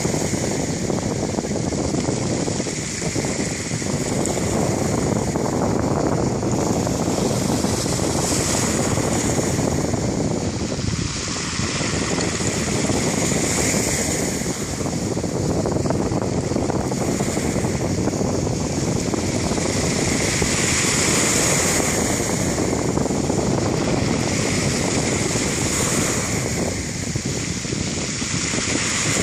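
Black Sea surf washing onto the beach, swelling every few seconds as waves break, with wind rumbling on the microphone.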